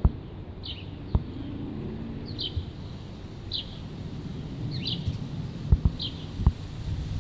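A small bird chirping, one short high chirp about every second, over a low outdoor background with a few sharp low thumps.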